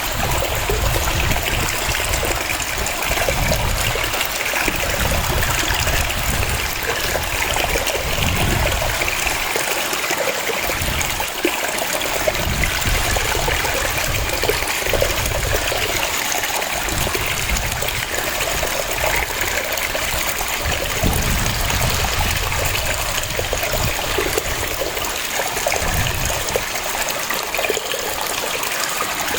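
Waterfall: a steady rush of falling water, with a splashing, trickling texture and the low rumble rising and falling every few seconds.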